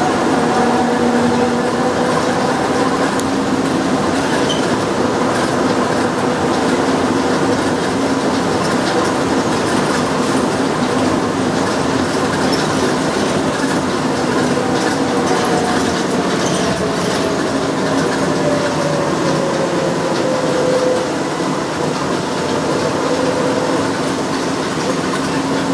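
Driverless airport shuttle train running along its guideway, heard from inside the car: a steady rumble of the running gear with a motor whine over it. Past the middle the whine falls in pitch over several seconds as the train slows.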